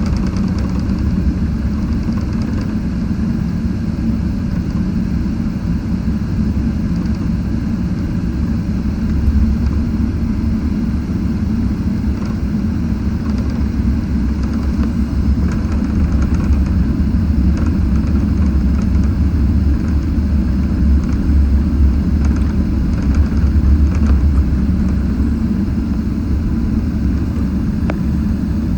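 Steady low rumble of a Boeing 777-300ER's GE90 engines and airframe, growing a little louder for a while near the end.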